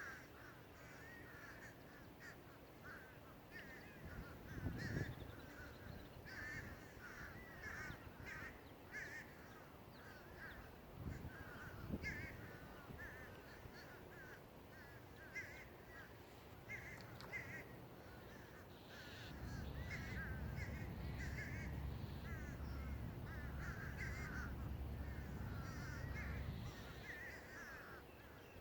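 Crows cawing over and over, many calls overlapping, with a steady low rumble joining in about two-thirds of the way through and stopping near the end.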